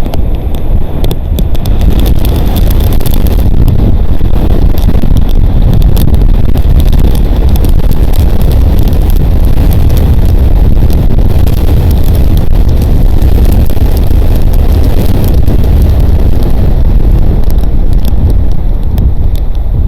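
Strong wind buffeting a nest camera's microphone: a loud, steady low rumble, with scattered sharp ticks of rain striking the camera.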